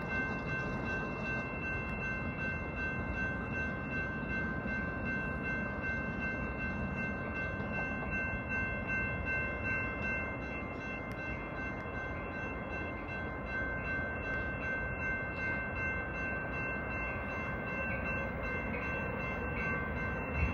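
Metra commuter train pushed by an F40PHM-3 diesel locomotive, approaching: a steady low rumble with several constant high-pitched tones held over it.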